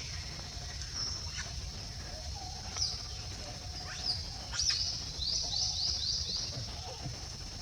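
Wild birds chirping, with a quick run of about six falling chirps in the second half, over a steady high-pitched drone and a low rumble.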